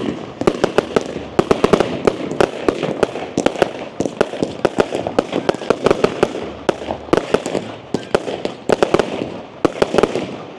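Fireworks going off in rapid, continuous volleys of sharp cracks and bangs, several a second, loud enough to set off a watch's noise warning.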